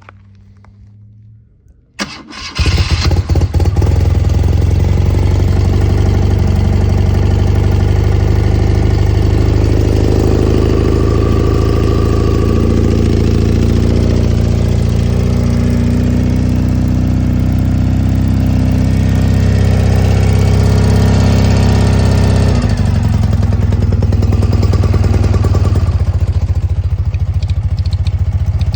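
1986 BMW R65's air-cooled flat-twin engine starting on a cold start, catching about two seconds in, then idling steadily, its idle shifting a little in pitch partway through.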